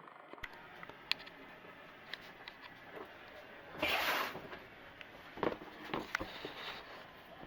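Hands-on plumbing work on a bathroom fixture being removed: scattered clicks and knocks, a short rasping scrape about four seconds in, then a few more knocks.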